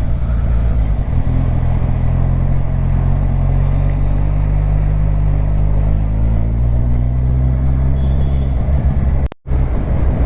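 Kawasaki Ninja 1000's inline-four engine running at light, steady throttle while cruising, its pitch shifting gently up and down. The sound cuts out briefly about nine seconds in.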